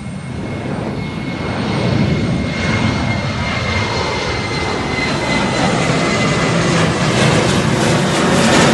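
Jet airliner's turbofan engines at high thrust during a go-around, an aborted landing: a deep rumble with a steady high whine, growing steadily louder as the aircraft nears.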